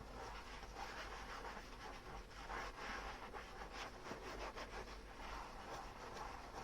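A soapy sponge scrubbing dishes: a steady run of irregular rubbing strokes.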